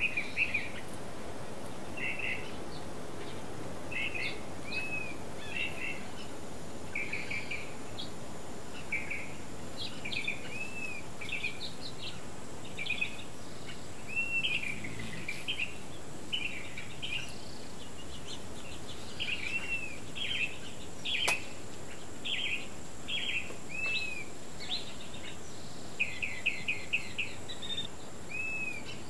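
Wild birds singing and chirping: short high notes, some of them arched, repeated every second or so over a steady background hiss.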